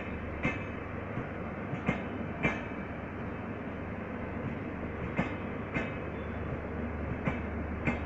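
Passenger train running with a steady rumble, its wheels clacking over rail joints in pairs about half a second apart, four pairs in all.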